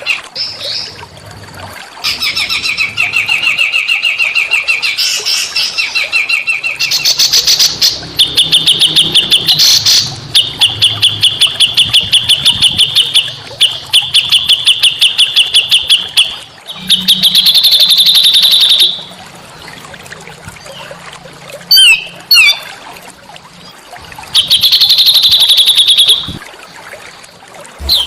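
Small songbirds singing phrases of fast, rapidly repeated trilled notes, each run lasting one to three seconds with short pauses between, and a few sharp quick chips about three quarters of the way through.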